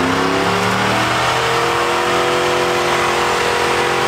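Truck engine revving up hard and then held steady at high revs.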